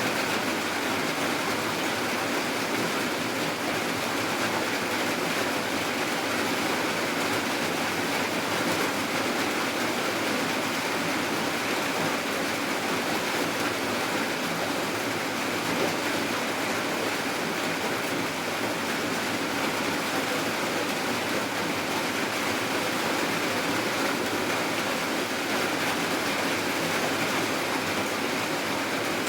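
Steady, even rainfall, a constant hiss with no breaks or separate drops standing out.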